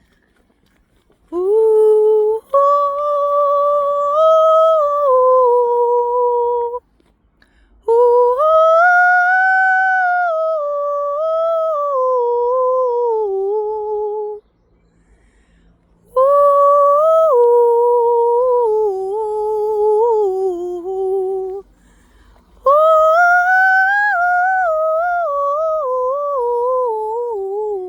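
Vocal toning: a single voice holding four long wordless tones, each several seconds, with pauses for breath between them. The pitch slides slowly up and down within each tone.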